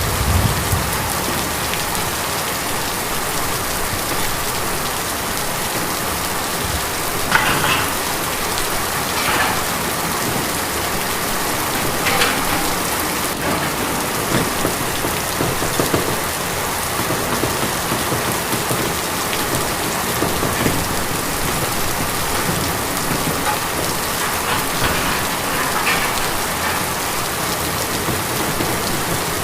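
Steady rain falling on a tin roof, an even patter with a few louder single drops or splashes standing out now and then.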